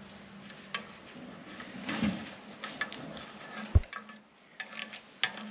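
Scattered light clicks, taps and crackles of hands working a vinyl decal onto the truck with a spatula and peeling off its transfer tape, with one dull thump a little before four seconds in. A faint steady hum runs underneath.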